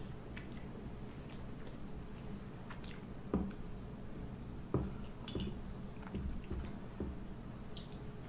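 Close-up eating sounds: chewing on a mouthful of ramen noodles, with a few short clicks of a utensil against the bowl.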